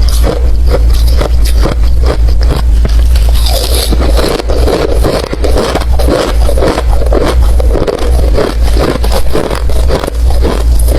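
Ice being chewed close to the microphone: a continuous run of rapid, crunchy bites and cracks, with a steady low rumble underneath.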